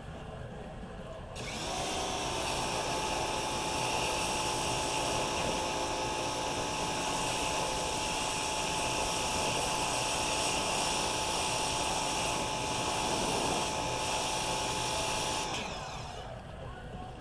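A power tool running steadily with a constant whine and hiss for about fourteen seconds, starting suddenly and winding down near the end.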